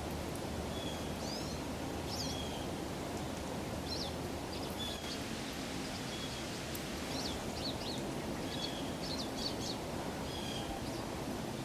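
Small songbirds, which the observer takes for some type of grosbeak, giving short high chirps and quick sweeping call notes, scattered several times a second, over a steady outdoor background hiss.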